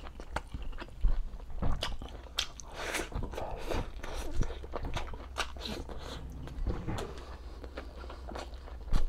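Close-miked eating: a person chewing and biting soft braised pork humba with rice, with wet mouth clicks and smacks throughout. Two sharper knocks stand out, about a second in and near the end.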